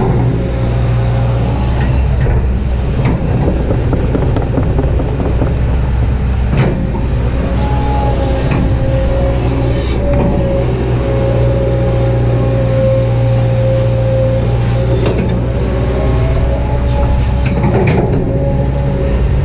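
Kobelco SK200-8 hydraulic excavator at work: the diesel engine runs steadily under load while the hydraulic pump whine rises and falls as the boom and bucket move, with a few knocks from the working gear.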